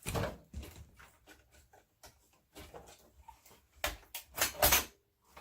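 Handling noises: a knock at the start, then a cluster of clunks and scrapes about four seconds in, as computer hardware or its packaging is moved about by hand.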